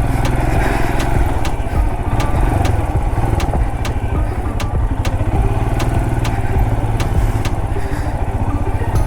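Motorcycle engine running steadily at low speed on a rough trail, with light regular clicks about two or three a second.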